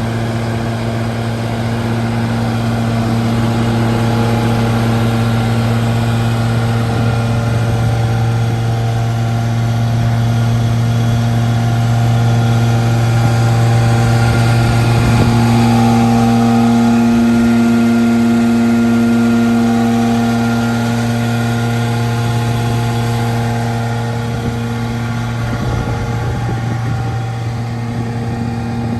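Septic truck's engine running steadily at a constant pitch, growing a little louder through the middle.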